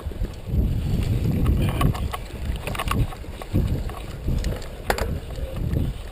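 Mountain bike riding over a rough trail: wind buffeting the microphone in gusts, with sharp knocks and rattles from the bike, the loudest about two, three and five seconds in.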